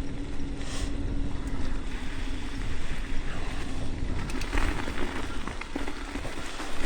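Electric bike riding slowly through slushy snow: wind rumbling on the microphone and tyres hissing through slush, with a steady hum from the rear motor that stops about five seconds in.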